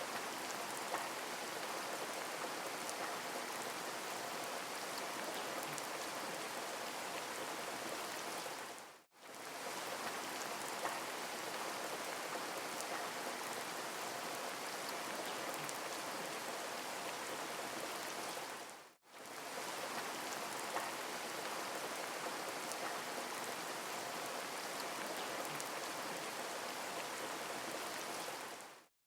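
Steady rain falling, an even hiss of many drops. It cuts out briefly twice, about ten seconds apart, and again at the very end.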